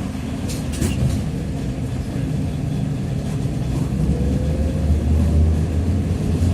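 TrolZa-5275.05 "Optima" trolleybus under way: a steady low rumble, with a faint whine from the Ishimbay drive axle and DK-213A traction motor that rises in pitch a few seconds in as it speeds up. A few short rattling clicks about half a second to a second in.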